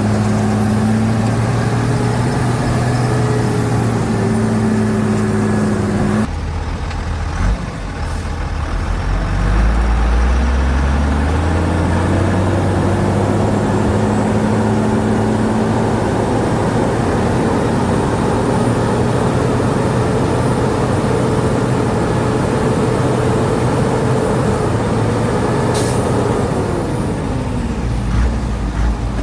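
Shantui DH17C2 bulldozer's diesel engine working under load. Its pitch drops about six seconds in, climbs back up over the next few seconds, holds steady, then eases down near the end. There is one short sharp high sound late on.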